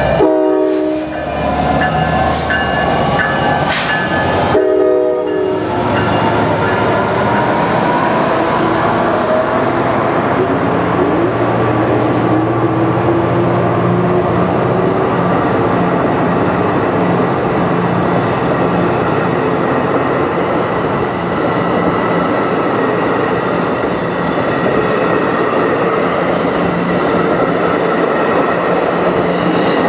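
NJ Transit PL42AC diesel locomotive sounding two short horn blasts, the signal that it is about to move off. The first blast ends about a second in and the second comes a few seconds later. The engine then throttles up, rising in pitch, as it pulls a train of Multilevel coaches past, with the steady rumble of the wheels on the rails.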